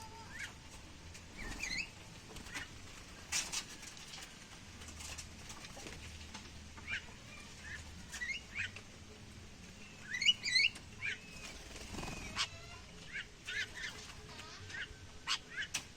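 Caged songbirds calling with short, scattered chirps and quick rising and falling notes, with louder calls about two-thirds of the way through.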